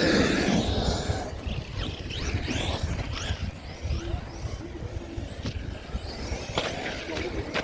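A radio-controlled car's electric motor whining and changing pitch as it drives off, fading after about a second and leaving a low, steady rumble with a few sharp clicks near the end.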